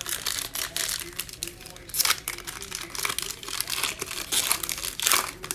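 Plastic wrapping on trading-card packs crinkling and tearing as packs are ripped open, a run of quick crackles with louder rips about two seconds in and near the end.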